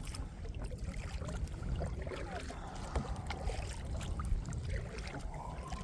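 Steady low rumble of wind on the microphone, with small choppy waves lapping against a kayak hull and a few faint ticks and splashes.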